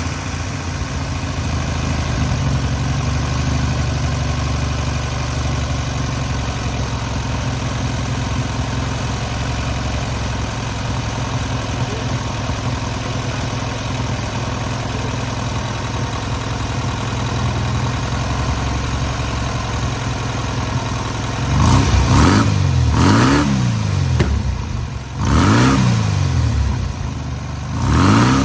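Freshly rebuilt air-cooled VW 1600cc flat-four running steadily on its first run and break-in, then revved up and let fall back four times in the last seven seconds.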